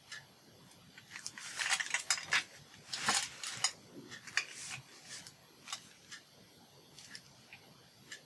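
Paper rustling and being handled as journal pages are shifted into place, with a run of crisp crinkles and small clicks in the first half and scattered light ticks afterwards.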